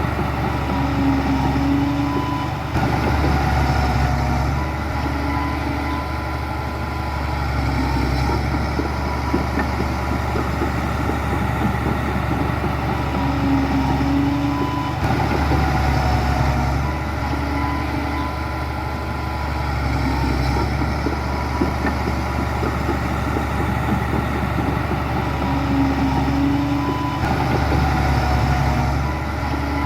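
Diesel engines of heavy earthmoving machinery, bulldozers and dump trucks, running steadily. The same pattern of changes in the engine note recurs about every twelve and a half seconds.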